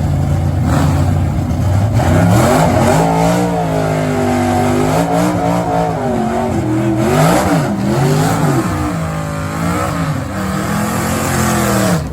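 A drag racer's engine idles low, then from about two seconds in is revved up and down again and again, its pitch rising and falling in repeated swells. It cuts off abruptly at the end.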